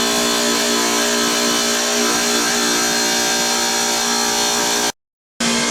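Electric power saw cutting ceramic floor tile: a steady motor tone with a hiss over it. It drops out for about half a second near the end, then starts again.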